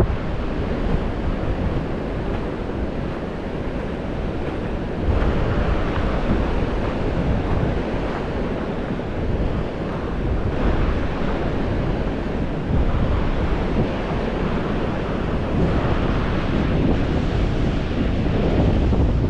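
Wind buffeting the microphone: a steady rushing noise heavy in the low end, swelling in gusts every few seconds.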